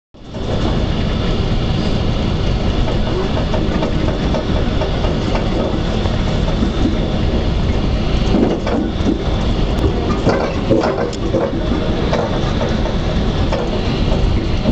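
Metrolink commuter train running at speed, heard from on board: a steady low rumble of wheels on rail. A run of sharp clicks and knocks from the wheels on the track comes from about eight to twelve seconds in.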